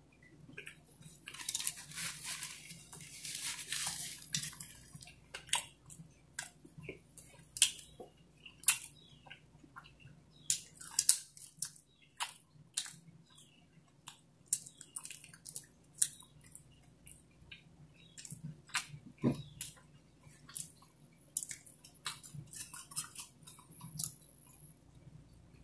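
Close-miked chewing and biting of pizza: irregular wet mouth clicks and smacks, with a denser stretch of crunching about two seconds in.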